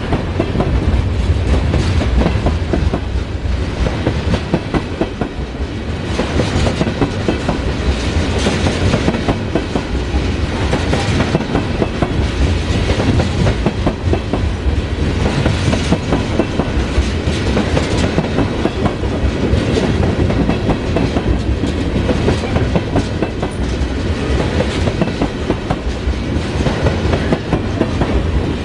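Freight train of oil tank cars rolling past close by: steady low rumble with wheels clicking rapidly over the rail joints.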